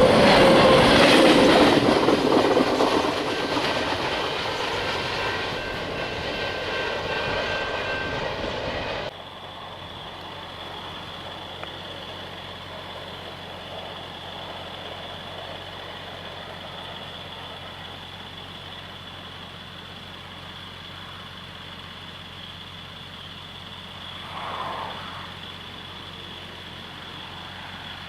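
A freight train's cars rolling past, loud at first with high squealing tones from the wheels, slowly fading as it moves away. About nine seconds in the sound cuts off abruptly to a much quieter background with a steady high tone, and a brief passing swell near the end.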